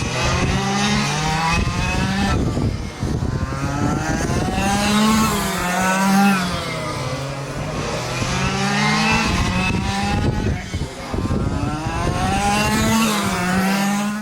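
Quarter-scale RC super trucks racing, several motors revving up and down together as the pack laps the track, with pitch rising and falling in waves every few seconds.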